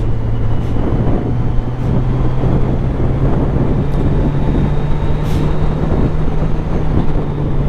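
Motorcycle engine running at a steady low speed, its note stepping up slightly about a second in, with rumble and wind on the microphone.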